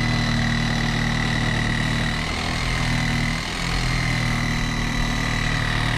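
An engine or motor running steadily, a low hum with a thin high whine above it, easing slightly for a moment midway.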